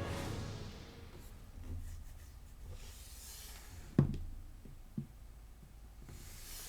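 Faint handling of plastic action figures, with one sharp click about four seconds in and a smaller click about a second later.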